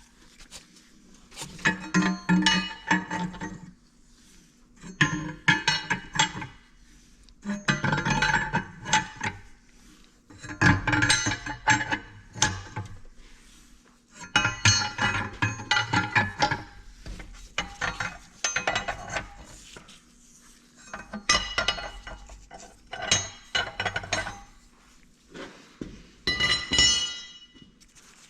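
Steel tools and engine parts clinking and clanking in repeated bursts of a second or two, with metallic ringing, coming every two to three seconds.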